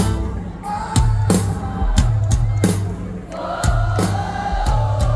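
Live worship band music: a steady drum-kit beat over a heavy bass, with a held, wavering melody line coming in about three seconds in.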